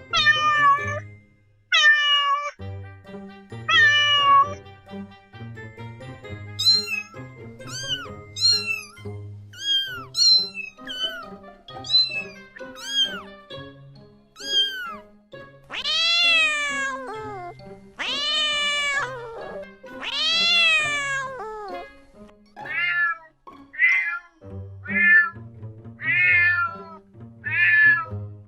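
Kittens meowing over and over, short high calls that fall in pitch about once a second, with three longer, louder meows about halfway through. Background music with a low beat runs underneath.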